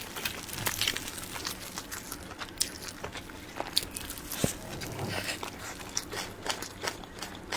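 A person biting and chewing soft cream-filled cake roll, with irregular wet mouth clicks and smacks.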